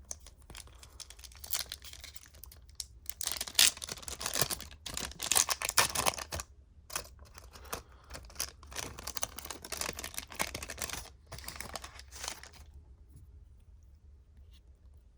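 A foil trading-card pack wrapper being torn open and crinkled, with cards handled, in a run of rustling and ripping that dies down about three seconds before the end.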